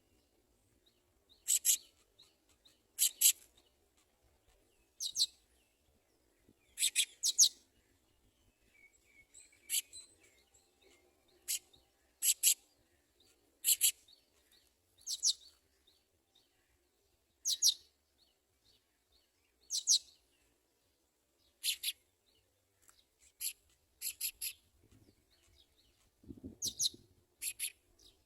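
House sparrow chirping: single short, high cheeps repeated every second or two, some in quick pairs. A brief low rustle comes near the end.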